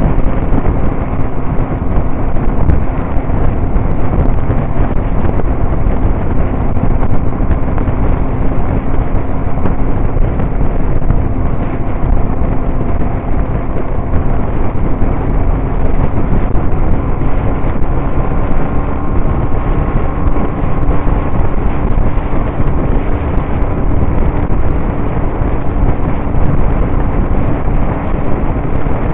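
Motorcycle riding at a steady speed: a steady engine drone under loud wind rush on the microphone.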